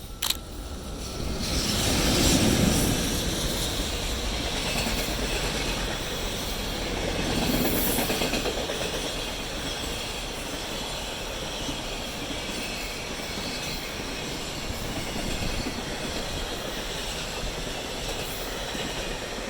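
A freight train passing close by, led by an EH500 electric locomotive, then a long run of container flat wagons rolling past with a steady rumble and clatter of wheels on the rails. It is loudest about two seconds in, when the head of the train goes by.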